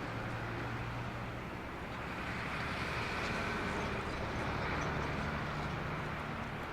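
Steady jet engine noise from a departing Airbus A340-300's four CFM56 turbofans, heard from a distance, with a low hum under a broad hiss.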